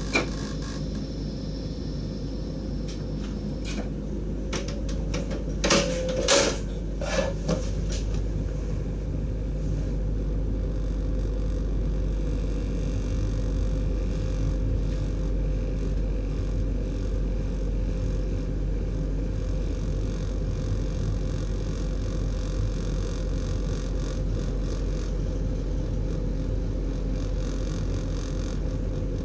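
Steady hum and rumble inside the driver's cab of a DDZ double-deck electric train, with a short cluster of sharp clicks and knocks about six to seven seconds in.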